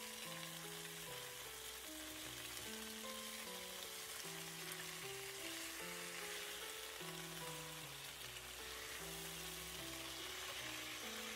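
Chicken thighs sizzling steadily in hot oil in a frying pan while they are turned over with tongs. Background music with a simple melody plays alongside.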